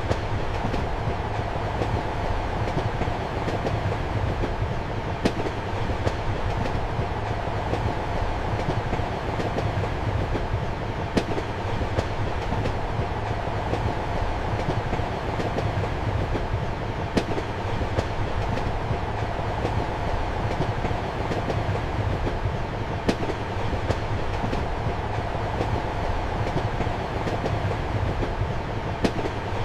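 Passenger train heard from inside a compartment: a steady rumble and hum of the moving train, with the wheels clicking over rail joints. The sharpest click comes about every six seconds.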